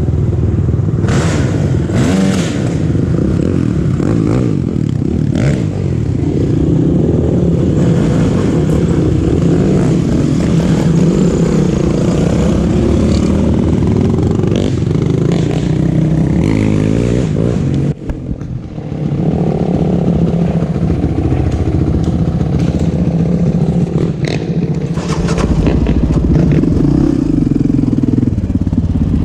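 Off-road motorcycle or quad engine running hard, its pitch rising and falling with the throttle, with scattered knocks and clatter. The engine drops away briefly about eighteen seconds in, then picks up again.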